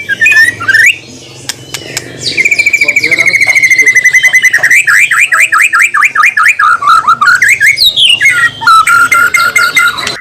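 White-rumped shama (murai batu) singing loudly in fast trills of rapidly repeated notes: a long run starting about two seconds in, then a lower rapid rattle near the end.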